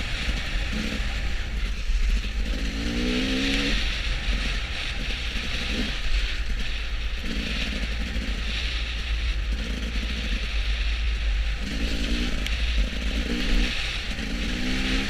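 A motor vehicle on the move: a steady low road rumble with rushing air, and the engine note rising and falling in short spells, most clearly a few seconds in and again near the end.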